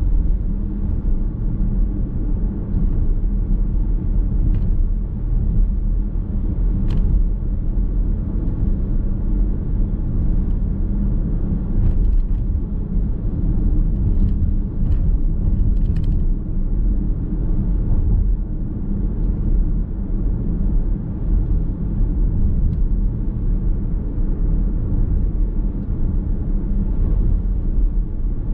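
Steady road noise and engine rumble of a car driving at speed, heard from inside the cabin: a low, even drone of tyres on the road, with a few faint ticks and knocks.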